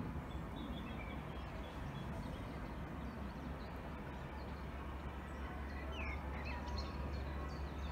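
Wild birds chirping and tweeting in short scattered calls, busiest about six seconds in, over a steady low rumble.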